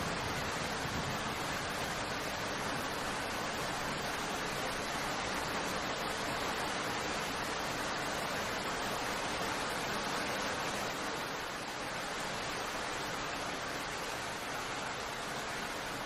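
Steady rain, an even hiss, with a low rumble fading away over the first few seconds.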